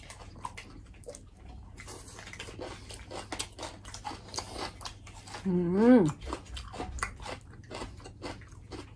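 Close-up chewing and crunching of food, many small crisp crunches, with pickled mustard greens and beef tripe being eaten. About five and a half seconds in, a short hummed vocal sound rises and falls in pitch; it is the loudest moment.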